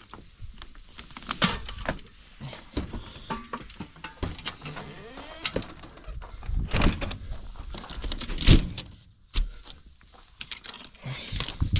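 Irregular knocks, clatters and rustling of objects being handled and moved, with the loudest thumps about two thirds of the way through.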